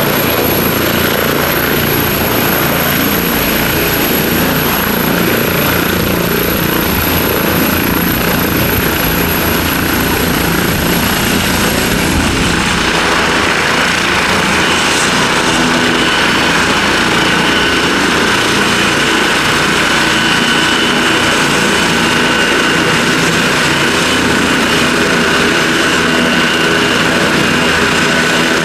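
Helicopter's turbine engines and rotor running steadily at close range. A thin, very high whine stops about twelve seconds in, and a steady mid-pitched turbine whine comes up from then on.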